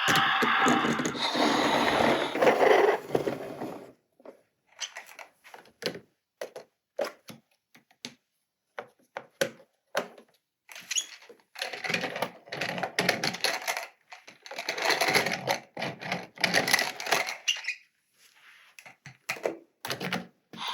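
Plastic toy packaging and parts being handled. Crinkling and rustling runs for the first few seconds, then comes a string of separate clicks and taps, with two more spells of rustling past the middle and a few clicks near the end.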